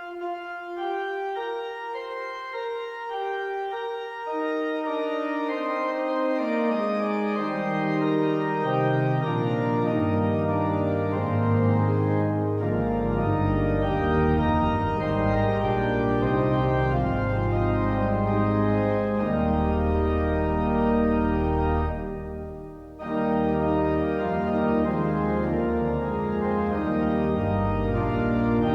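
Organ music playing sustained chords, the bass stepping lower over the first ten seconds until a deep pedal bass comes in about twelve seconds in. The sound drops away briefly a little past twenty seconds, then the full chords return.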